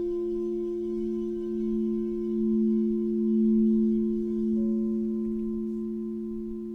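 A singing bowl ringing on after being struck or rubbed, its tone wavering in slow swells of volume as it gradually fades. The higher overtones die away about two-thirds of the way through, leaving the low hum.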